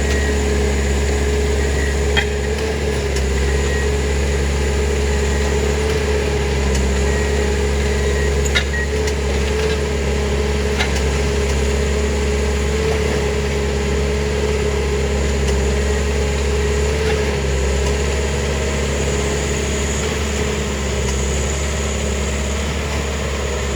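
Track-maintenance machine engine running steadily at a constant speed, with a few sharp metallic clinks.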